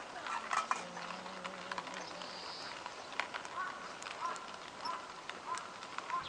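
Wood campfire crackling, with scattered sharp pops. Short repeated chirps come in about halfway through.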